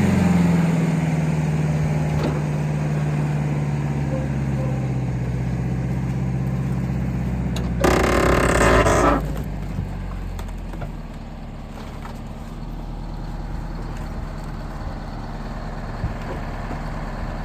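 Diesel engine of a small front-end loader settling down from a rev and running steadily. About eight seconds in, a loud harsh noise lasts about a second, and after it the engine runs quieter.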